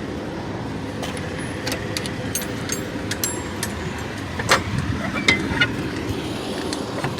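A semi truck's engine idling steadily with a low rumble. Light clicks and rattles sound close by, with two sharper knocks about four and a half and five seconds in.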